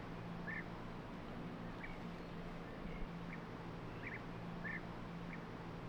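Birds giving short calls, about eight in all, spaced irregularly, over a steady low hum.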